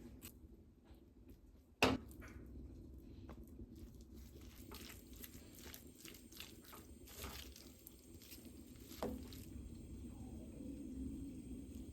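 Handling noises: a single sharp knock about two seconds in, then a run of light clicks and taps with another knock near the end.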